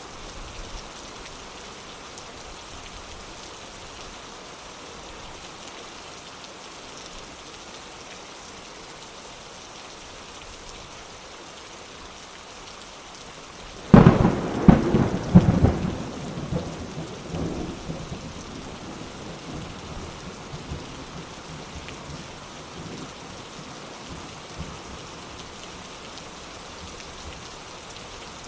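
Steady heavy rain falling, with a sudden close thunderclap about halfway through that cracks loudly and then rumbles away over several seconds.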